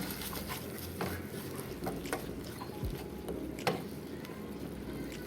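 A spoon or spatula stirring sambal in a pan, with scattered light taps and scrapes against the pan over a faint steady hiss.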